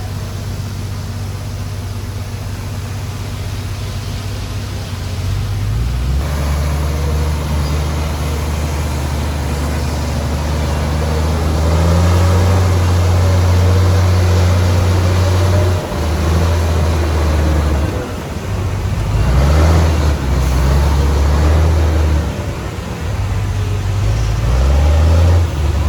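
Heavy diesel engine of earthmoving machinery running. It runs low and steady at first, rises to a louder working note about six seconds in, then dips and picks back up several times.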